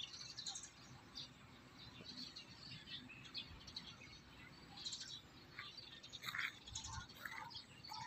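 Small birds chirping faintly in short, scattered calls over a quiet outdoor background.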